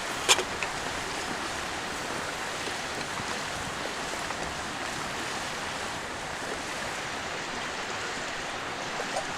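Clear mountain stream flowing, an even, steady rush of water. A single sharp tap sounds near the start.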